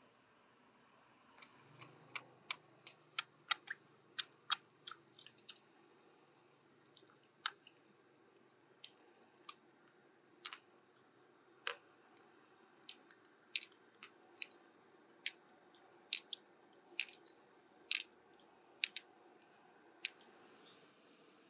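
A run of sharp, irregular clicks and taps of small hard objects, coming more often in the second half, over a faint steady high whine: the sound of handling mussel shells and pearls.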